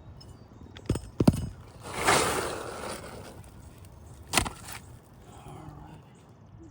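A few sharp knocks and clicks with a brief scraping rustle about two seconds in: asphalt roof shingles being worked loose with hand tools.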